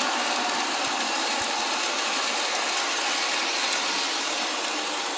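Model passenger trains running on the layout's track: a steady whir of motors and wheels on rail that slowly fades near the end.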